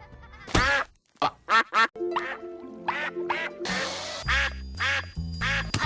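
Hollywoodedge 'Duck Quacks Close' stock sound effect: a duck quacking about ten times in short, irregular calls over background music.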